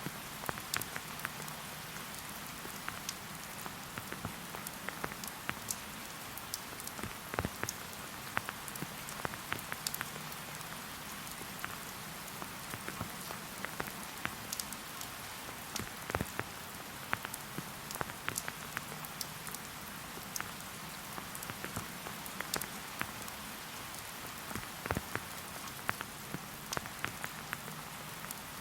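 Steady rain falling in a forest, a continuous hiss with many individual drops landing close by as sharp ticks.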